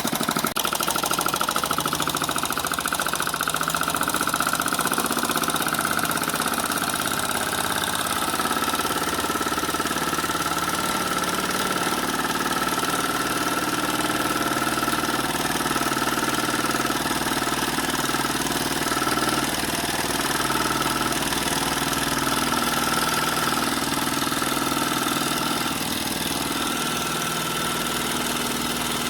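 Homemade Stirling (hot-air) engine built from drink cans, running fast with a rapid, even mechanical clatter. A high whine runs with it, dropping slightly in pitch about eight seconds in and then holding steady.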